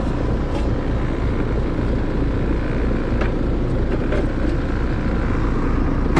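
Air-conditioner condensing unit running with a steady, loud low hum. The noise comes from a compressor about to fail, which needs replacing.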